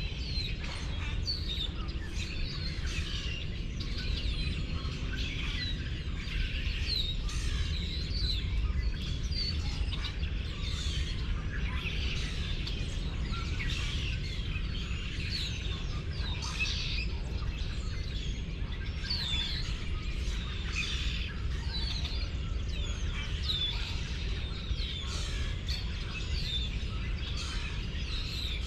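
Many small birds chirping and twittering continuously, with short quick calls overlapping one another, over a steady low rumble.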